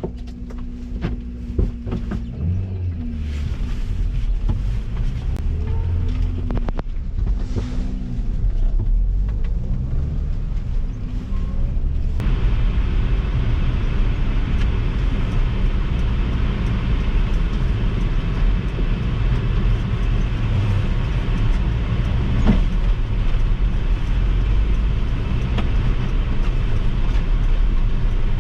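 Kei mini truck engine working in extra-low first gear through snow, its pitch rising and falling as the throttle varies. About twelve seconds in the sound switches abruptly to a steady drone of engine and tyre noise while driving.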